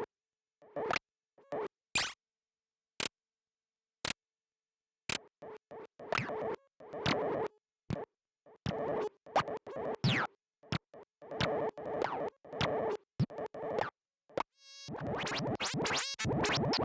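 Lorre-Mill Double Knot synthesizer playing an electronic patch. It starts with sparse, short, sharp blips about a second apart, grows into denser stuttering, choppy bursts around one steady pitch, and near the end turns into a continuous busy, glitchy stream.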